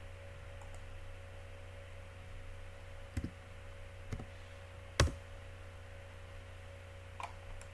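Four separate clicks of a computer mouse and keyboard during CAD work, the loudest about five seconds in, over a steady low electrical hum.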